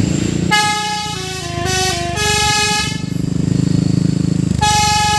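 Truck's basuri musical air horn playing a short stepping tune of several notes, stopping about three seconds in and starting the tune again near the end, with the truck's engine running underneath.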